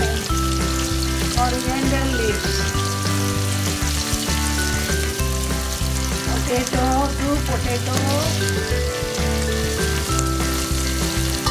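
Sliced onions, curry leaves and coriander leaves sizzling and crackling as they fry in hot ghee in a metal pot. Background music with held chords plays underneath.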